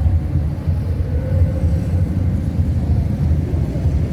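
Motorcycle engines in a passing parade, a steady low rumble with faint rising and falling revs above it.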